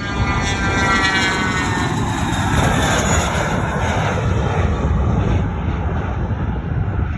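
Cessna 680 Citation Sovereign's twin turbofan engines at takeoff power, a loud roar with a whine that falls in pitch over the first few seconds as the jet passes.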